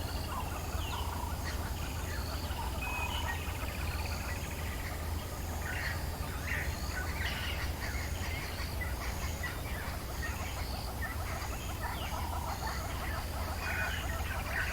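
Dawn chorus of several African bush birds calling and chirping at once, with a high short call repeated about once a second over a steady low background hum.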